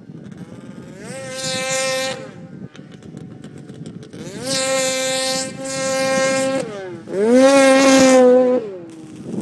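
2003 Polaris RMK 700 snowmobile's two-stroke twin running with no muffler, revved three times from idle: each rev climbs, holds steady and drops back, the third the loudest.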